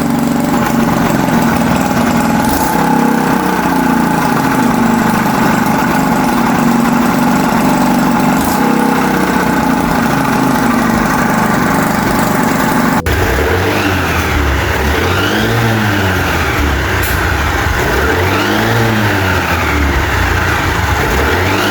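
TVS Scooty Pep+ scooter engine running steadily at idle. About two-thirds of the way through, the sound cuts to the engine being revved up and down over and over, roughly every second and a half.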